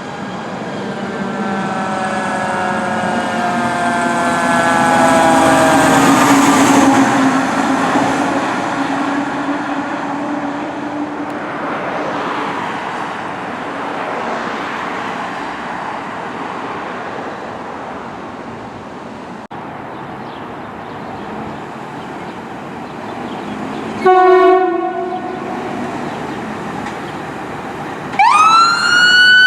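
Fire apparatus passing with its siren falling in pitch over the noise of its engine and tyres. Late on comes one short air-horn blast, and near the end a siren winds sharply up in pitch and holds.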